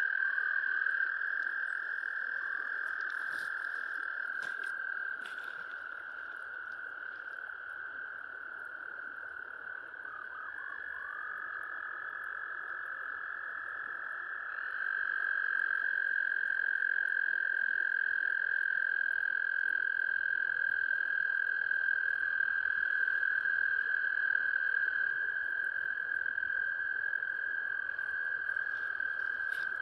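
Frogs calling in chorus: several long, steady high-pitched trills overlap, with new callers joining partway through and the chorus getting louder about halfway in.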